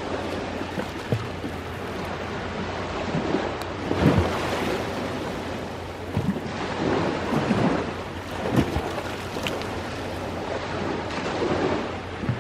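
Ocean waves washing onto the shore, swelling and receding every few seconds, with scattered sharp crackles and pops of a wood campfire.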